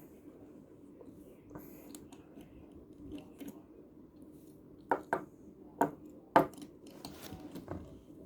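Quiet handling noise of small die-cast Mini Racers toy cars, with four sharp clicks a little past halfway as the cars are picked up and set down on a hard surface.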